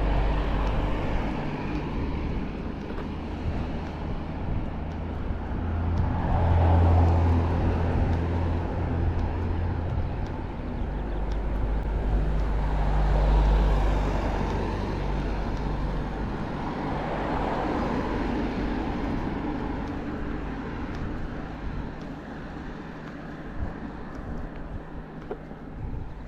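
Road traffic: cars passing one after another, each pass swelling and fading away, about three in all, over a steady background rumble. It quietens near the end.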